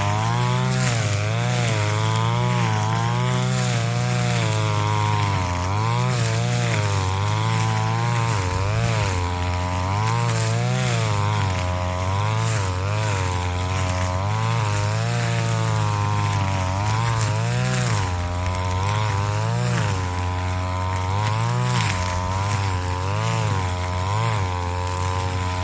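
Brush cutter's small engine running hard, its pitch repeatedly dipping and climbing again every second or two as it is worked.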